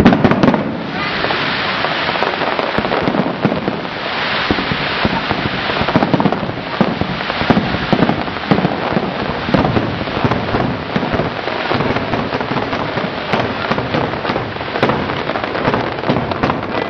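Fireworks display: a dense, continuous barrage of bangs and crackling, with a loud boom right at the start.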